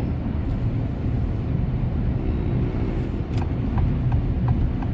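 Steady low rumble of a car moving through snow, heard from inside the cabin. About three seconds in, a regular light ticking starts, roughly four ticks a second.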